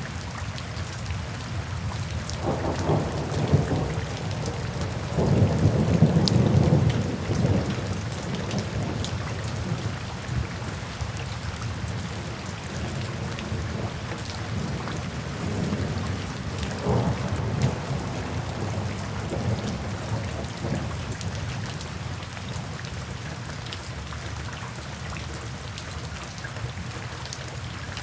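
Steady rain with rolls of thunder: a low rumble swells about three seconds in and again, loudest, about five to eight seconds in, with a fainter roll around the middle.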